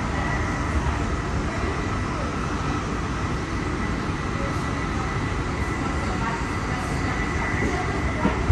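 Interior running noise of a Goninan-built K set double-deck electric train at speed, heard from inside the carriage: a steady low rumble of wheels on rail with a thin, steady high whine above it.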